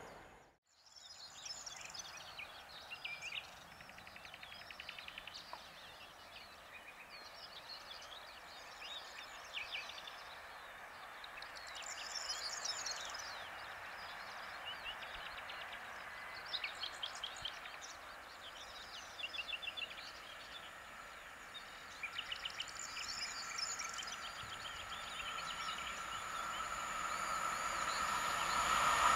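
Songbirds singing in short chirping phrases over faint steady background noise. Over the last few seconds an approaching train grows steadily louder, with a rising hum from the rails.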